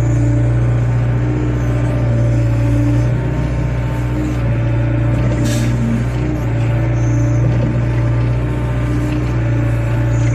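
Wheeled excavator's diesel engine running steadily at working speed, with higher tones that come and go as the machine works, and a brief hiss about halfway through.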